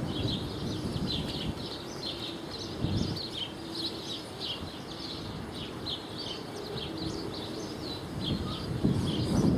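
Small birds chirping busily, many short high chirps overlapping several times a second. A low rumble of wind on the microphone comes about three seconds in and again near the end.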